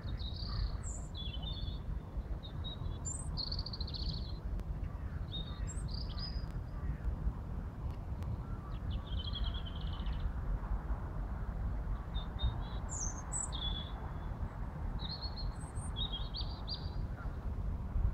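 Several songbirds singing, with short high chirps and trills coming every second or so throughout, over a steady low rumble.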